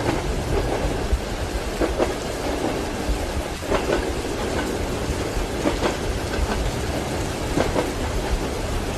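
Steady rain and a low thunder rumble over a train's wheels clacking on the rail joints, a clack roughly every two seconds.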